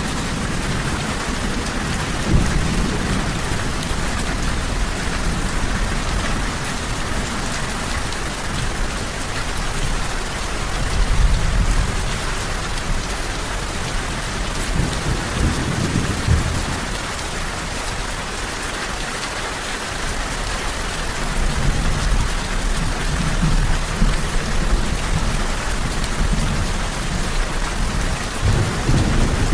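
Steady, heavy rain falling on a surface, with low rolls of thunder swelling and fading several times.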